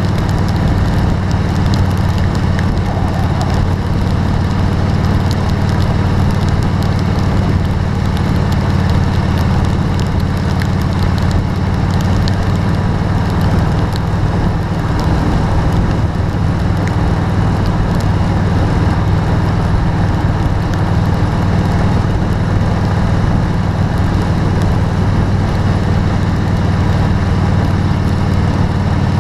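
Vehicle driving in rain: a steady low drone of engine and road noise under an even hiss of rain and tyre spray.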